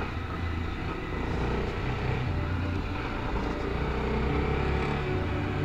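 Honda XRE300 motorcycle's single-cylinder engine running while riding a dirt road, its note rising and falling with the throttle.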